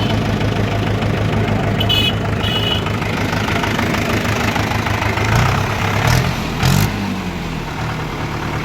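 Mahindra 575 DI tractor's four-cylinder diesel engine idling with a steady low pulse, briefly revved about six seconds in, its pitch rising and then falling back. Two short high chirps sound about two seconds in.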